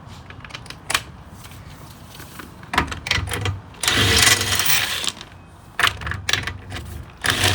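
Handheld power tool spinning out the wheel lug bolts in about four short runs, the longest about a second, after a single click.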